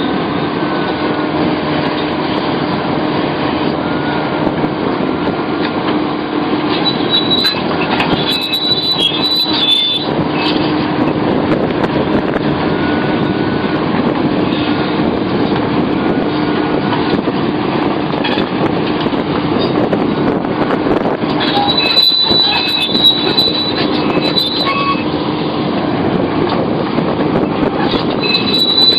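Sumitomo SH700LHD-5 excavator working, its diesel engine running steadily. High squealing comes in twice, about seven seconds in and again after twenty seconds.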